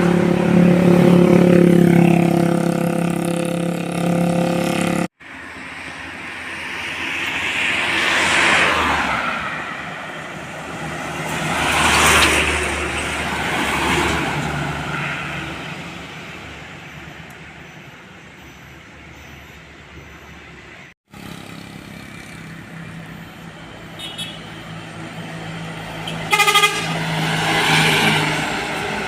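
Big trucks passing on a road, with horn toots: a loud, held pitched horn blast near the start and another short one near the end, between the swelling and fading noise of vehicles going by.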